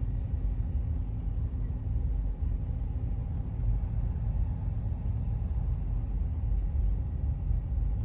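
Steady low rumble of a lifted Toyota pickup truck driving slowly at about 10 mph, heard from inside the cab.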